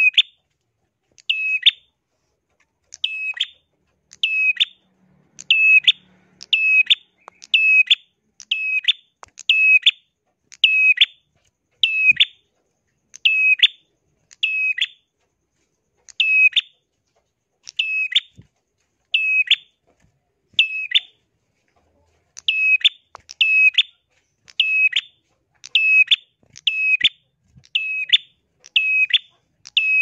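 A caged tailorbird (a prenjak) calling: a loud, sharp, high chirp repeated about once a second, with a couple of slightly longer pauses.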